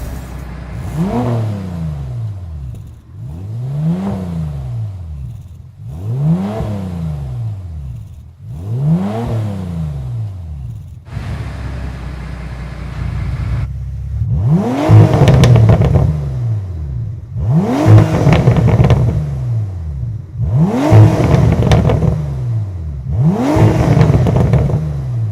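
Bentley Continental GTC W12 engine revved through a Quicksilver stainless sport exhaust: eight rev blips, each rising and falling back to idle. The first four are slower and softer; the last four climb more sharply and are louder.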